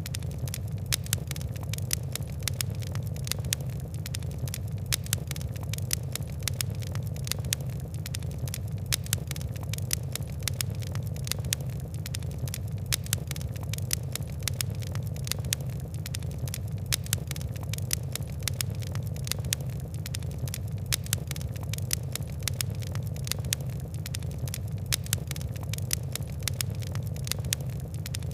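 Fire crackling: frequent sharp crackles and snaps over a steady low rumble of burning flames.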